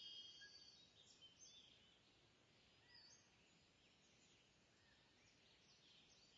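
Near silence, with faint high bird chirps now and then over a light hiss.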